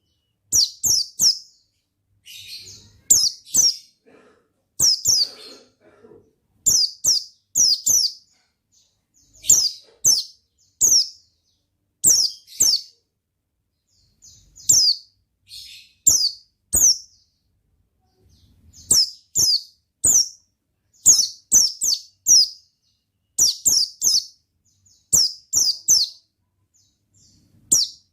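White-eye (pleci) singing: quick groups of two to four high, thin chirps, each falling in pitch, repeated about once a second with short pauses between.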